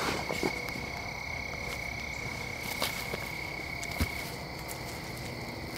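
Steady high-pitched trilling of calling animals, frogs or insects, with faint scattered clicks and a single sharper tap about four seconds in. The trill stops shortly after the tap.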